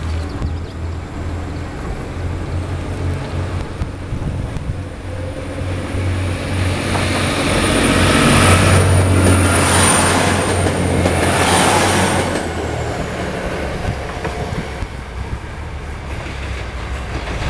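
A JR 381 series electric train pulls out of the station and runs past. Over a steady low hum, the rumble of the wheels on the rails builds to a peak with a thin high-pitched squeal at about 8 to 12 seconds in, then fades away.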